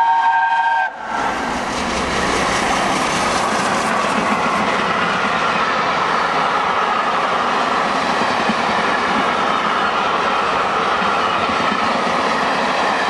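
The whistle of LNER Peppercorn A1 steam locomotive 60163 Tornado sounds a steady chord that cuts off about a second in. It is followed by the loud, steady rush and clatter of the locomotive and its coaches passing at speed.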